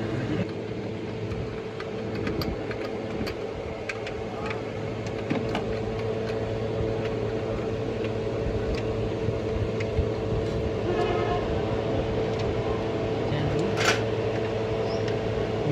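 A steady mechanical hum of several fixed tones, with scattered light clicks and a sharp loud click near the end.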